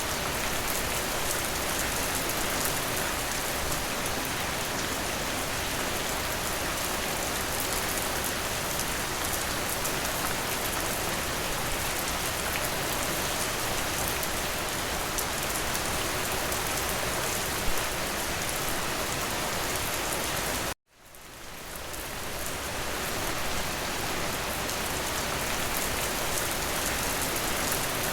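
Steady rain, a dense even hiss of many drops. About three quarters of the way through it cuts out suddenly to silence, then fades back in over a couple of seconds.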